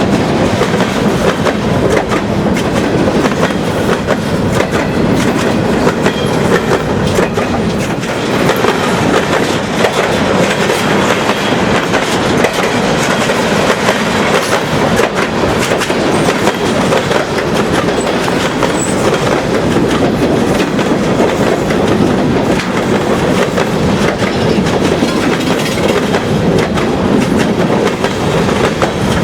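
Cars of a Portland & Western freight train rolling steadily past at close range, wheels clacking over the rail joints with a continuous rumble.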